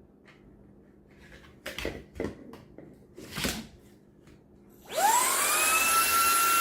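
A few brief knocks and clatters, then about five seconds in the eufy HomeVac H30 Mate cordless handheld vacuum switches on at high speed. Its motor whine rises quickly and settles into a steady high whine over loud rushing air.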